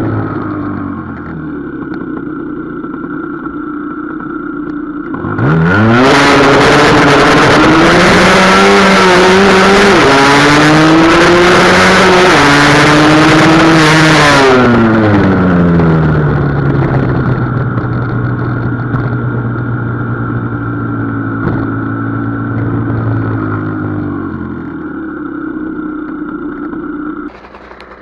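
Husqvarna SM 125 two-stroke single-cylinder motorcycle engine on the move. It eases off at first, then a few seconds in is opened up hard, its pitch climbing and dropping back twice at gear changes, with loud rushing noise. It then slows and runs steadily until it cuts off sharply near the end.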